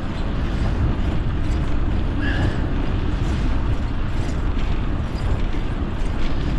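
Wind buffeting the microphone of a moving bicycle's camera, a steady low rumble that rises and falls, with a brief faint higher chirp about two seconds in.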